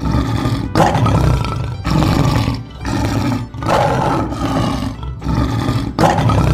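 Lion roaring over and over, one rough roar after another about every second.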